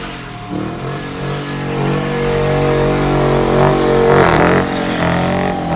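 A car engine running at raised revs. Its pitch climbs slowly, dips briefly about four seconds in, then holds steady again.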